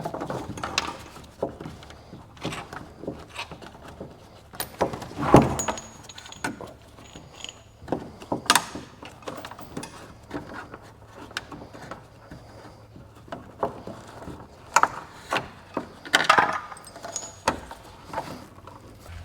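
Scattered metallic clinks, knocks and rattles of tools and hardware being handled, with a few louder knocks.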